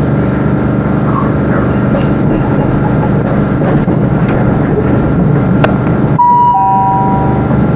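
Class 387 electric multiple unit heard from inside while under way: a steady rumble from the wheels and running gear. About six seconds in, the rumble drops and a two-note falling chime plays over the public address, the signal that an onboard announcement is about to start.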